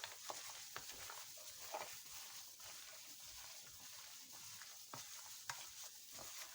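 Hands working chunks of lamb in a wet marinade of spices, onion, tomato and vinegar, giving soft scattered squelches and clicks over a faint steady hiss.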